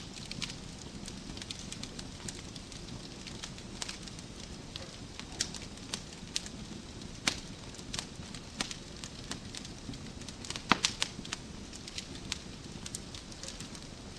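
Wood fire in a fireplace crackling: irregular sharp pops and snaps from the burning logs over a steady low rush of flame, with a loud cluster of pops about ten seconds in.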